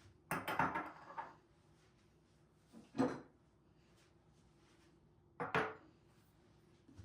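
Household handling sounds: three separate short clatters and knocks, one about a second in, one at three seconds and one at five and a half seconds, like objects being set down or a cupboard or drawer being worked.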